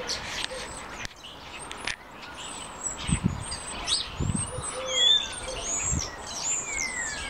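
Garden birds chirping and singing, many quick overlapping chirps and falling whistles, with a low, short note repeated now and then underneath.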